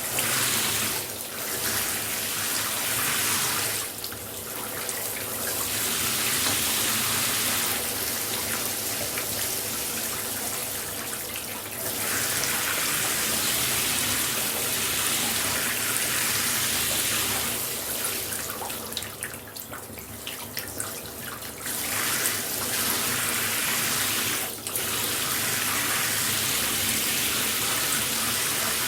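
Shower spray running steadily, a dense hiss of water hitting a surface, which shifts and thins for a few seconds several times.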